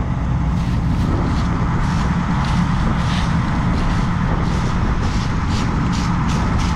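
Combine harvester running steadily while harvesting soybeans: a constant low engine and machinery hum with irregular light ticks and rattles on top.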